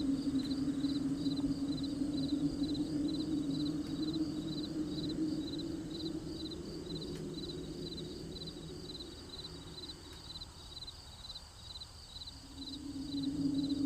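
Crickets chirping in a steady pulsed rhythm, about three chirps a second, over a low steady drone that fades away about two-thirds of the way through and comes back near the end.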